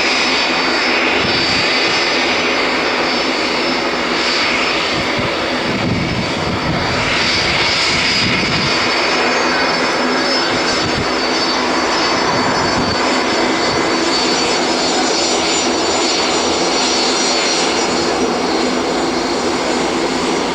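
Cargo aircraft's engines running, a steady loud noise with thin high whining tones over it, holding level throughout.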